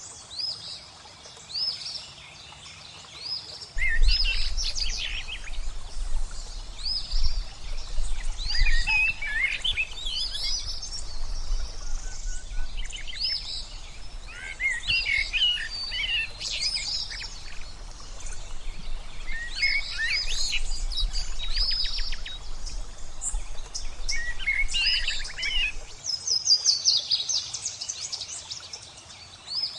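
Several songbirds singing and calling, with quick repeated chirps at first and a fast trill near the end, over a soft wash of flowing water. A deep low rumble joins about four seconds in and stops a few seconds before the end.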